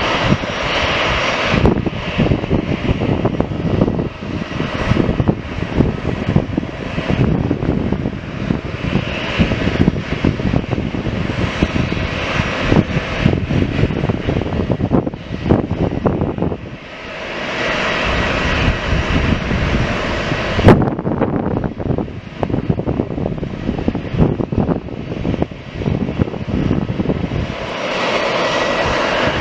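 Airliner engine noise, loud and steady, with a brief easing about halfway through. A single sharp click comes about two-thirds of the way in.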